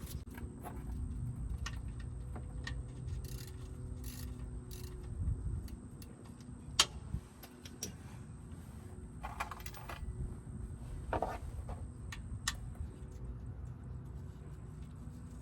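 Scattered clicks, knocks and clinks of tools and parts being handled under a car while it is readied for an oil drain, with one sharper knock about seven seconds in, over a low steady rumble.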